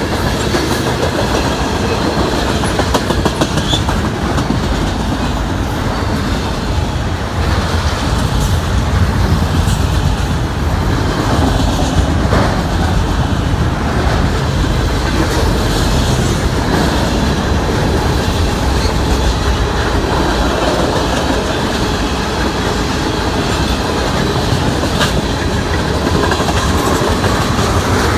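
Freight cars of a mixed freight train rolling past, a steady loud rumble of steel wheels on rail with occasional clicks over the rail joints.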